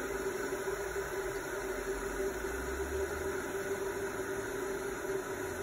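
Steady hum with a constant mid-pitched tone over an even hiss.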